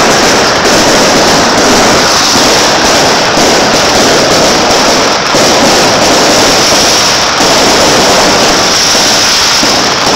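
Beehive-rocket barrage: masses of bottle rockets and firecrackers going off at once in a loud, unbroken, dense crackle.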